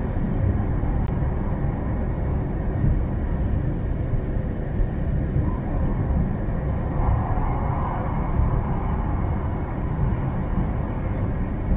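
Steady running noise of an E3-series Shinkansen train at speed, heard from inside the passenger car: a constant low rumble of wheels on rail and rushing air.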